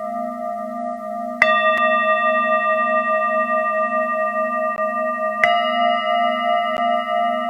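Singing bowls ringing in long, wavering tones over a steady low tone. A bowl is struck about a second and a half in and another about five and a half seconds in, each adding new ringing tones.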